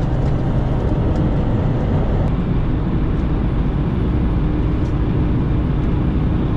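Steady engine drone and road noise of a semi truck cruising at highway speed, heard from inside the cab.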